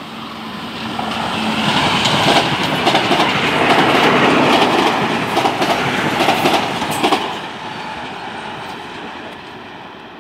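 Metro-North electric commuter train passing close by, its wheels clacking rhythmically over the rails. It grows louder, is loudest for about five seconds in the middle, then fades from about seven seconds in.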